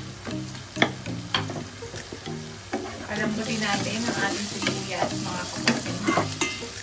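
Kimchi and onions sizzling as they fry in a pan, stirred with a wooden spatula that scrapes and taps against it. The sizzle grows louder about three seconds in.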